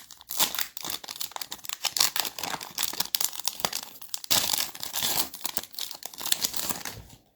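Plastic wrapper of a basketball trading card pack crinkling and tearing as it is ripped open and the cards are pulled out, with dense, irregular crackling that stops abruptly near the end.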